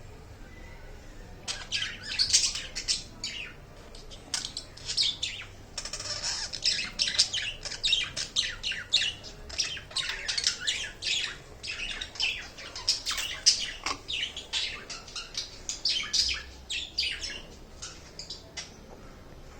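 Budgerigars chattering: a dense run of rapid chirps and squawks that starts about a second and a half in and stops shortly before the end.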